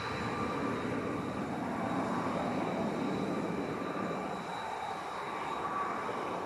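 Jet airliner engines running, a steady broad noise with a faint high whine.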